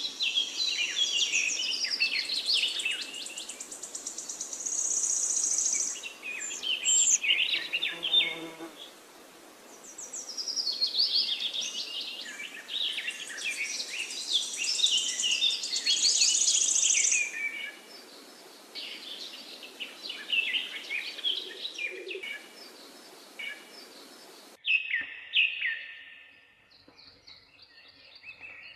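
Several songbirds singing at once in forest ambience: dense overlapping chirps and fast high trills. About three-quarters of the way through the background hiss drops out abruptly and quieter, sparser chirping continues.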